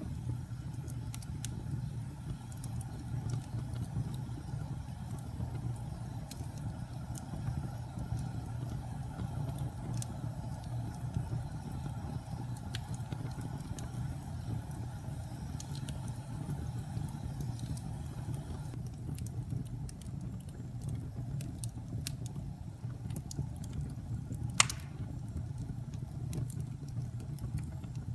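Wood fire burning in a fireplace: a steady low rumble of the flames with scattered small crackles, and one louder pop about three-quarters of the way through.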